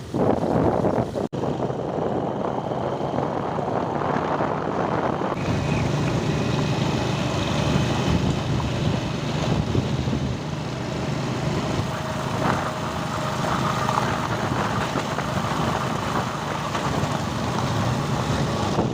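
A vehicle's engine running steadily, with wind rushing over the microphone while travelling. The sound changes abruptly about a second in and again about five seconds in.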